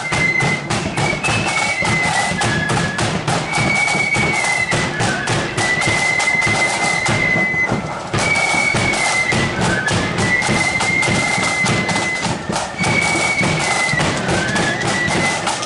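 Marching flute band playing a tune, with high flutes carrying the melody over rapid snare and bass drumming. The drumming thins briefly about halfway through.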